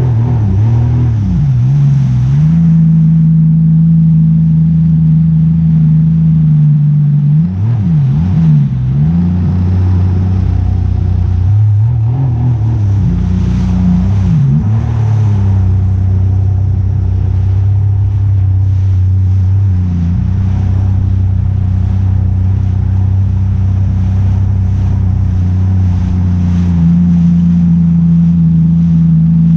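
A motor vehicle's engine running steadily with a low hum. Its pitch wavers and dips twice, about a quarter of the way through and again around the middle, as the engine speed changes.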